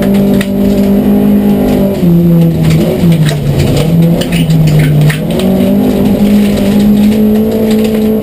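Volvo 240 rallycross car's engine at full race effort, heard from inside the cabin. Its note sits at a higher pitch for the first two seconds, drops to a lower pitch through the middle, and jumps back up a little after five seconds, holding there.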